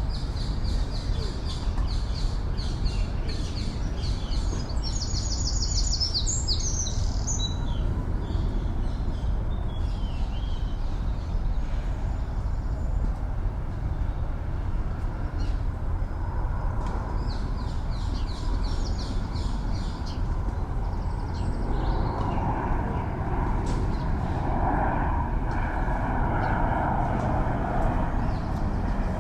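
Small songbirds chirping in quick, repeated high phrases over a steady low rumble of city traffic. Near the end an aircraft engine drone builds.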